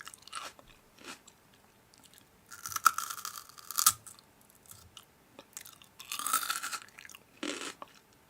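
Someone biting and chewing crunchy food close to the microphone, in two long crunching bouts with a few shorter crunches between.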